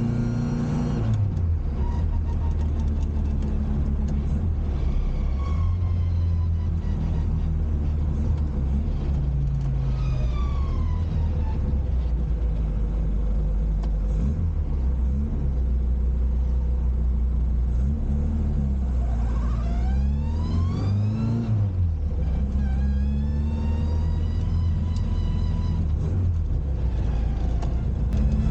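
Classic Mini's four-cylinder A-series engine being driven through the gears. Its note holds steady for stretches, drops at the gear changes about a second in and near the middle, then climbs under acceleration and falls sharply at a shift a little past two-thirds of the way through.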